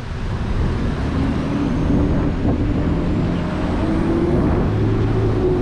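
Road traffic on a city avenue: a motor vehicle passing close by, its engine note climbing slightly toward the end, over a steady low rumble.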